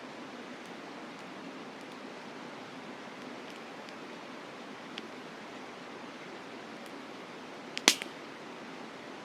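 Campfire burning, with a few faint crackles and one loud sharp pop of burning wood about eight seconds in, over the steady rush of a mountain stream.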